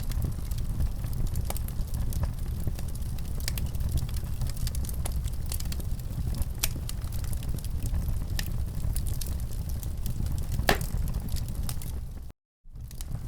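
Wood fire crackling in a fireplace: scattered sharp pops and snaps over a steady low rumble. The sound drops out to silence for an instant near the end.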